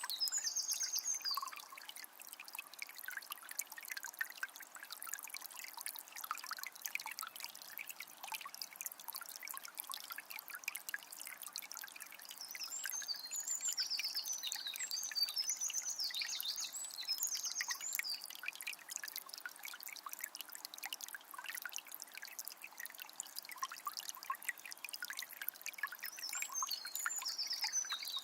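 Small spring's water trickling and gurgling steadily. A songbird sings bright, high, warbling phrases at the start, again in the middle for several seconds, and once more near the end.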